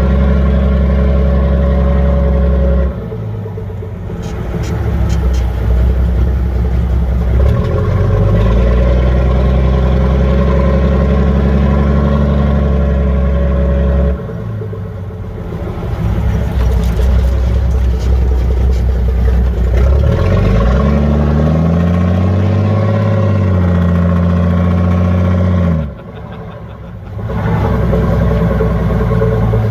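M923 5-ton truck's 14-liter Cummins diesel engine, which has no turbocharger, running under way, heard from inside the cab. The engine note drops off sharply three times, about 3, 14 and 26 seconds in, and climbs in pitch a little past two-thirds of the way through.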